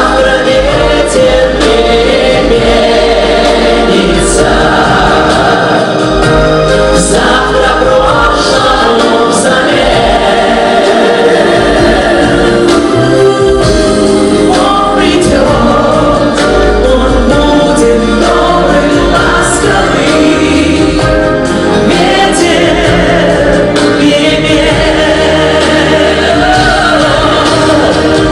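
Live pop song performance: a group of voices singing together over instrumental accompaniment with a moving bass line.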